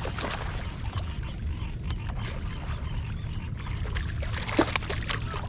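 Water splashing and dripping beside a kayak as a hooked bass is brought aboard, with scattered small knocks and clicks over a steady low rumble. One sharper knock comes about four and a half seconds in.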